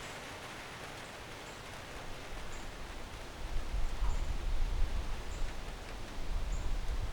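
Wind in trees rustling the leaves. From about two seconds in, gusts buffet the microphone with a wavering low rumble.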